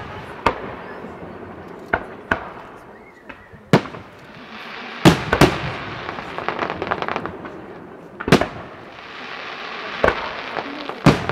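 Fireworks display: aerial shells bursting with sharp, separate bangs every second or two. A dense run of crackling follows the bangs about five seconds in, with a hiss lingering between bursts.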